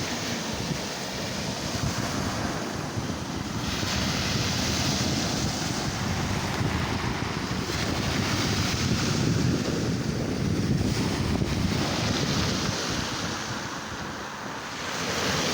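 Black Sea surf breaking on the beach, the wash swelling and easing several times, with wind buffeting the microphone.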